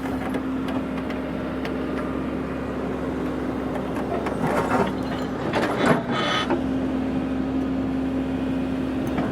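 Engine of an earth-moving machine running steadily, with clanks and scraping a little past the middle as its engine note dips briefly.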